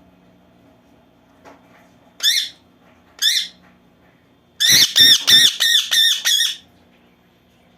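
Parrot squawking: two short harsh calls about a second apart, then a rapid run of about six loud screeches.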